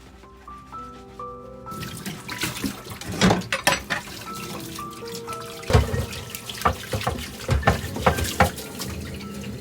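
Tap water running into a sink, starting about two seconds in, with repeated knocks and clatter of things being handled in it, over soft background music.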